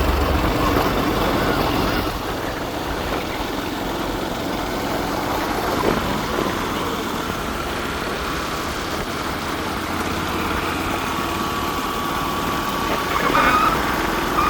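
A motor vehicle running on the road: steady engine and road noise.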